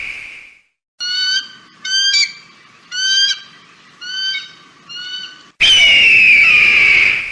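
An eagle calling: a run of five short, high, piping notes, then a long, loud, harsh scream that slides down in pitch near the end.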